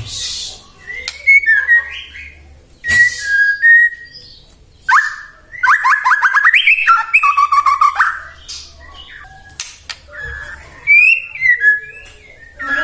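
White-rumped shama singing a varied, loud song: clear whistled phrases, a fast trilling chatter in the middle, and rising whistles near the end, broken by a few sharp clicks.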